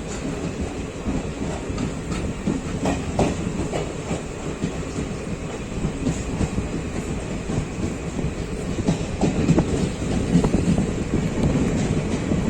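Passenger express train running at speed, heard from on board: a steady rumble of the coaches with wheels clicking and knocking over rail joints, slightly louder near the end.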